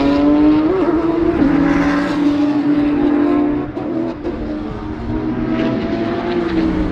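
Mercedes-AMG GT Black Series' twin-turbo V8 heard from inside the cabin, driving out of a corner after heavy braking. There are a couple of short throttle blips about a second in, then a steady engine note that slowly climbs in pitch, easing in loudness a little past halfway.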